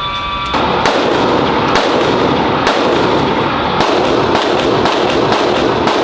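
Repeated handgun shots at a shooting range: sharp reports that start about a second in and come at irregular intervals of roughly half a second to a second.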